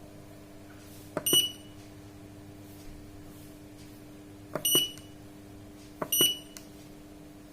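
Keypad buttons on a Sanken digital solar water heater controller being pressed three times, each press a click followed by a short high beep, over a steady low hum.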